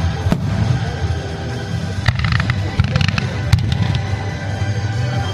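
Aerial fireworks by Kagiya bursting: several sharp bangs, with a spell of crackling shells about two to three and a half seconds in, over a constant low rumble. Music plays in the background.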